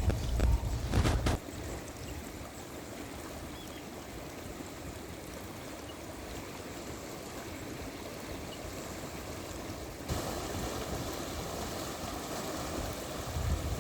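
Floodwater rushing down a swollen stream, a steady rush that steps up and gets louder about ten seconds in. Wind buffets the microphone with a low rumble for the first second or so.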